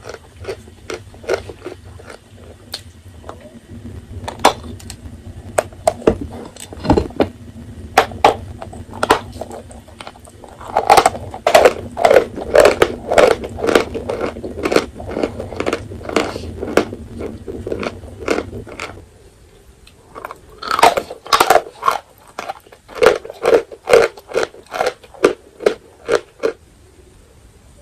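Dry edible chalk being bitten and chewed close to the microphone: crisp, dry crunches in quick runs, with a short pause about two-thirds of the way through.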